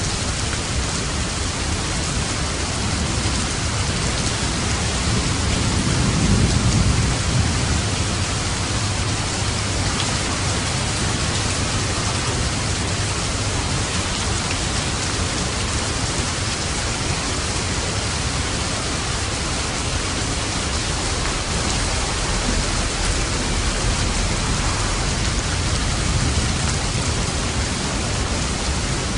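Steady rain falling on a roof, with a low rumble of thunder swelling about six seconds in and fading by about eight.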